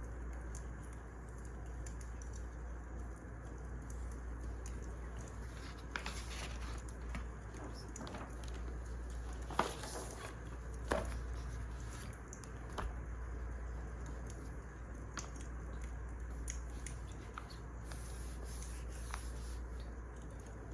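Wood fire crackling: a steady soft hiss with scattered small pops and snaps, the sharpest two a little past the middle.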